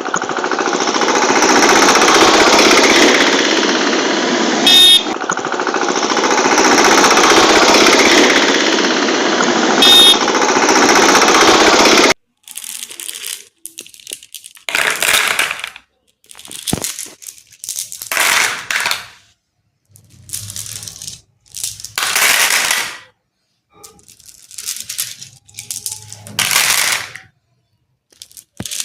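A loud, continuous rattle for about twelve seconds, then a run of short separate clatters with pauses between them: glass marbles being poured into a plastic toy tractor's trailer.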